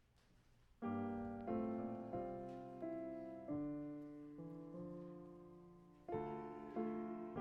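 Piano playing slow, sustained block chords, starting about a second in, each chord struck and then fading, in the manner of a hymn introduction.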